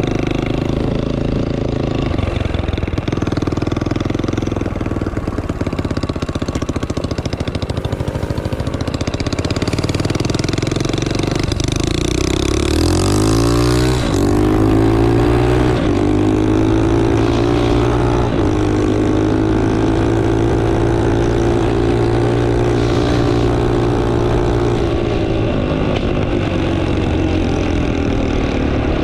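The 250cc five-speed engine of a homebuilt Coleman machine running at a steady lower speed, then revving up in a rising glide about halfway through and holding the higher speed before easing off near the end.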